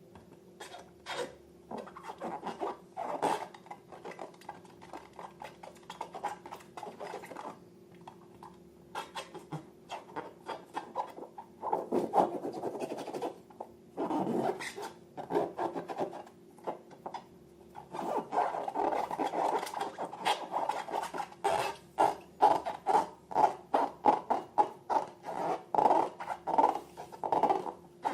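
Slime and balloons being handled, giving a series of rubbing, scratching and sticky clicking sounds. The strokes grow denser and louder in the last third, a quick run of squishes a few per second.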